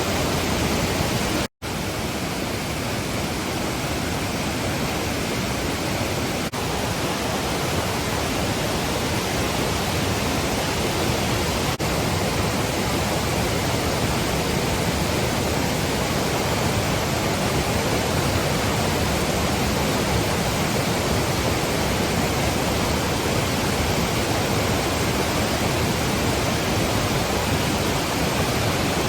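Waterfall roaring as a steady, loud rush of falling water, with a brief cut-out of sound about a second and a half in.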